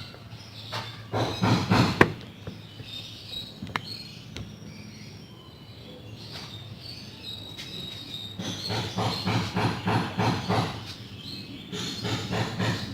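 Fast, rhythmic strokes rubbing back and forth over a wooden cabinet's surface during hand refinishing, in two spells: one at the start and one from about the middle to near the end, with a quieter pause between.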